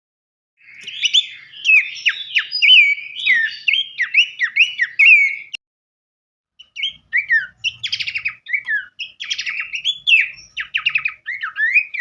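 Songbird song in a busy, varied stream of sharp downslurred whistled notes and rapid rattling trills, broken by about a second of silence in the middle.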